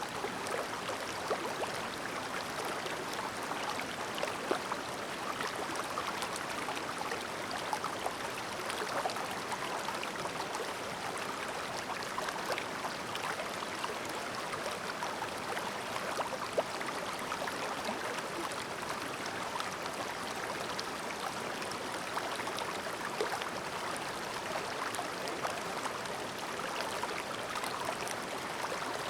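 Clear mountain stream babbling: a steady rush of flowing water with many small gurgles and splashes throughout.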